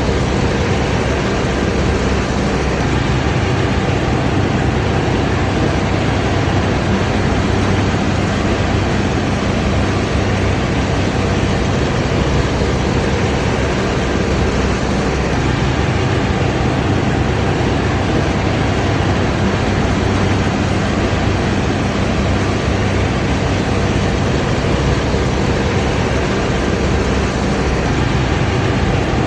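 Combine harvester running steadily under load, a constant engine drone with the rushing noise of the machine working.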